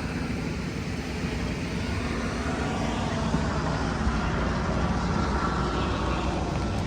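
A steady low engine drone over outdoor background noise, growing slightly louder.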